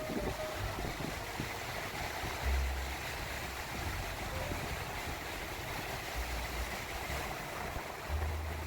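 Small waves washing steadily onto a wide sandy beach, with wind on the microphone adding low rumbles every few seconds.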